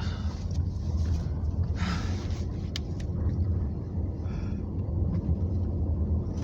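Steady low rumble of a car driving on snowy roads, heard from inside the cabin. There is a short hiss about two seconds in and a couple of faint clicks a second later.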